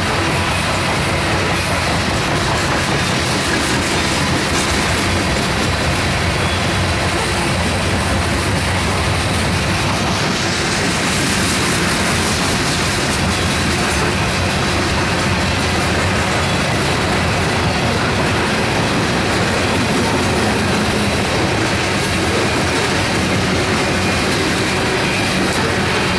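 Loaded coal hopper cars rolling steadily past at a level crossing, their steel wheels running over the rails and the crossing in a loud, unbroken clatter. The crossing's Safetran mechanical bells ring under it.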